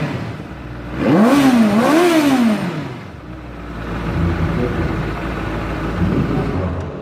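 A vehicle engine revved twice in quick succession, the pitch rising and falling each time, then settling back to a lower, steadier running sound.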